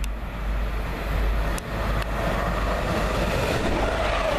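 A passenger train passing close by the platform at speed: a steady rush of wheels on rail, joined about two seconds in by a humming tone that holds.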